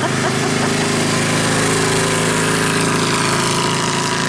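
A motor running steadily with an even, unchanging pitch.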